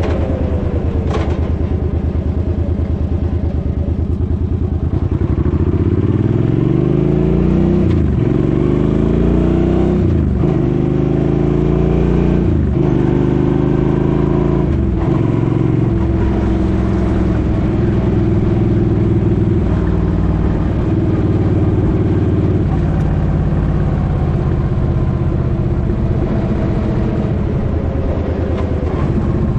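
Suzuki Boulevard M50's 805 cc V-twin engine under way: it holds a steady speed, then pulls up through four gear changes, the pitch rising and dropping at each shift, and settles into a steady cruise.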